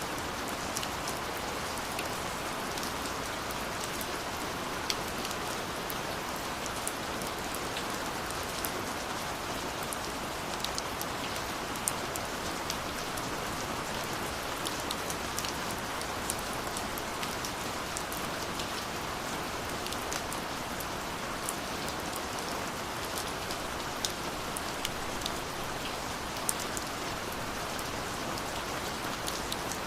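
Steady rain falling, a constant hiss with many scattered sharp drop ticks.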